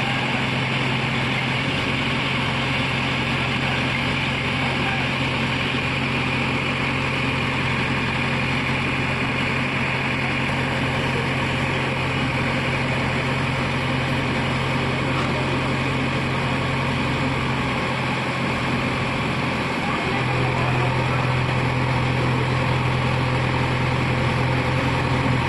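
Heavy diesel engine running steadily with a low, even hum, growing a little louder about twenty seconds in.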